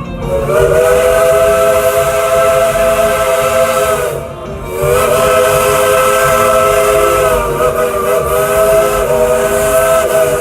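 Steam locomotive's whistle blowing two long blasts, several notes sounding together, with a short break about four seconds in, over a steady hiss of steam. The engine is a hand-fired, coal-burning steam locomotive built in 1943.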